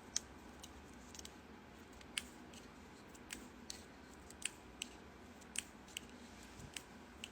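Faint, irregular small clicks, about a dozen over several seconds, against quiet room tone.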